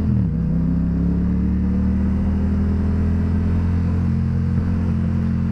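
Sport motorcycle engine under the rider, its pitch dropping briefly at the start and then holding steady at low revs.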